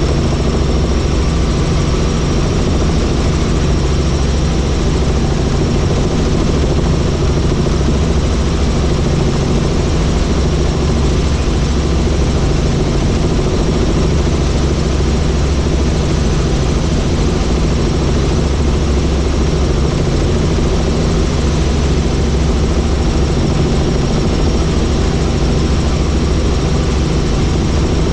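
Helicopter in flight: steady, loud rotor and engine noise with a thin, steady high whine over it.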